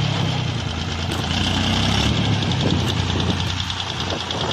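Tractor engine running steadily at idle, with an even clatter over its hum.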